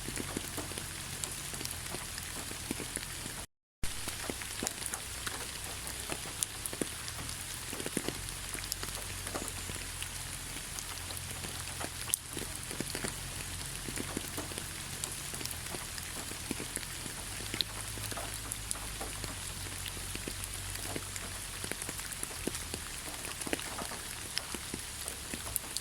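Steady rain falling in a pine forest, with many separate drops ticking close by over an even hiss. The sound cuts out completely for a fraction of a second about three and a half seconds in.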